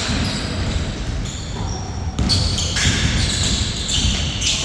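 A basketball bouncing repeatedly on a court during a game. From about two seconds in there are short high squeaks, as of sneakers on the floor.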